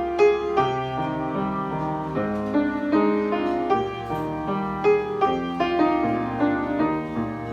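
Piano playing an instrumental passage of a slow ballad: flowing chords with a stepping bass line underneath, with no voice over it.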